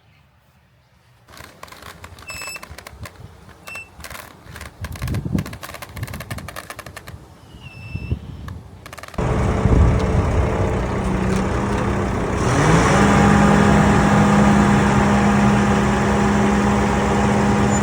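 Scattered knocks and scrapes with a few short high chirps, then the engine of a heavy machine such as an excavator or crane cuts in suddenly about nine seconds in and runs steadily, its pitch rising a little a few seconds later.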